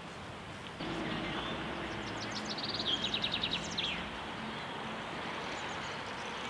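Outdoor park ambience: a steady background rumble with a low hum. About two seconds in, a songbird sings a quick trill of high repeated notes ending in a short flourish.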